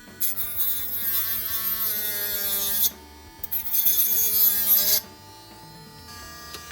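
Small handheld electric power tool running in two bursts, about three seconds and then a second and a half, a high whine that wavers in pitch under a rasping hiss.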